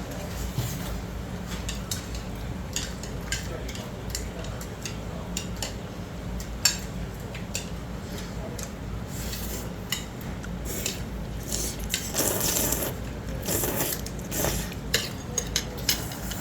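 Chopsticks and a spoon clinking and scraping against a bowl of jjamppong, a spicy noodle soup, in irregular light clicks, with one sharper clink about seven seconds in and two longer noisy stretches near the end.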